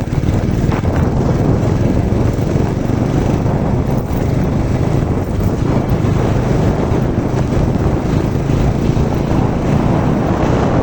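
Motorcycle running steadily while being ridden, with wind noise on the microphone.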